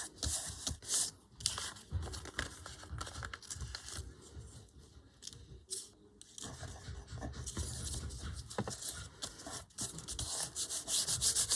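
Paper being handled and rubbed down by hand: irregular rustling and rubbing strokes, quieter for a couple of seconds in the middle.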